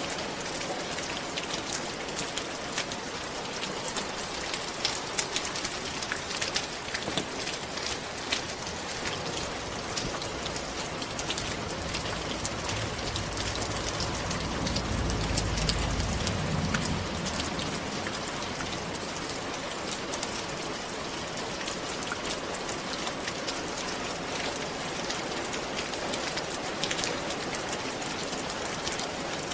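Steady rain falling on a roof, dense patter with individual drops ticking sharply. A low rumble swells and fades near the middle.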